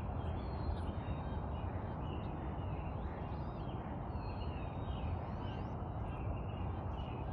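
Wood ducks calling, a string of short squealing calls with a few quick rising whistles, over a steady low rumble of background noise.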